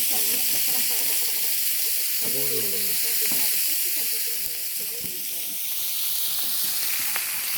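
Steady sizzling hiss from a cast-iron cauldron lid (sotttukkeong) heating over a wood fire, with an occasional small tick.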